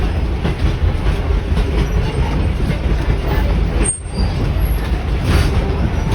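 Early-1920s Evans passenger carriage on the move: a steady low rumble of wheels on the rails with frequent clicks and knocks.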